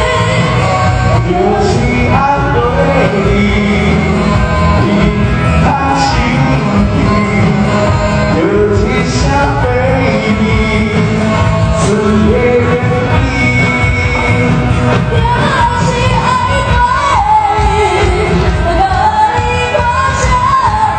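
Live band playing a pop song, loud and continuous, with a lead vocal singing over it.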